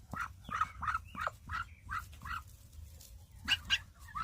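Broody Muscovy hen making a rapid series of short chirping calls, about three a second, with two sharper, louder calls about three and a half seconds in: her defensive noise at someone checking her nest.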